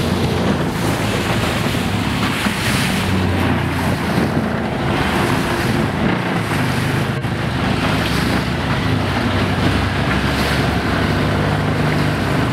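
Long-tail boat engine running steadily under way, with rushing water and wind buffeting the microphone.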